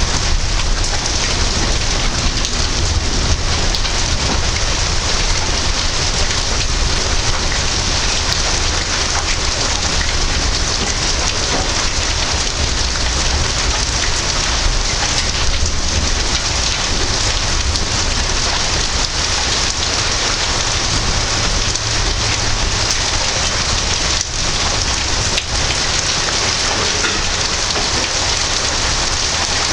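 Heavy thunderstorm rain pouring steadily, a dense even hiss of drops on surfaces, with a low rumble underneath.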